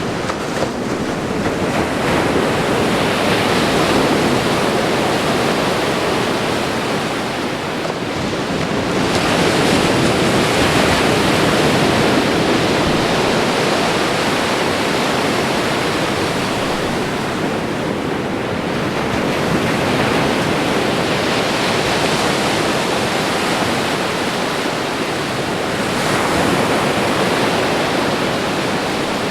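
Ocean waves washing onto a shore: a continuous rush that swells as each wave comes in, about every six to eight seconds.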